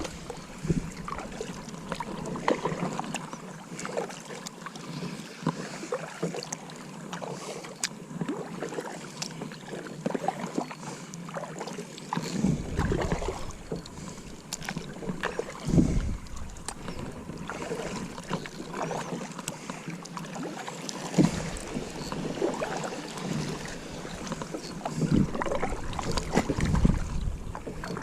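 Kayak being paddled: paddle blades dipping and splashing in the water with small knocks and clicks against the hull. Low wind rumbles on the microphone come in several times, longest from about two-thirds of the way through.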